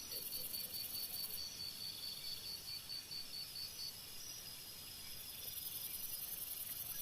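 Crickets chirping in a fast, even pulse that stops about four seconds in, over a steady high insect hum.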